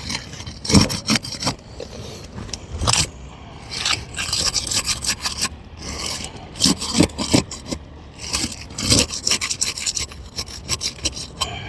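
A tool is worked under an asphalt roof shingle, scraping as it cuts through the shingle's tar sealant strip to unseal it. There are irregular short strokes, with sharper scrapes about a second, three, four, seven and nine seconds in.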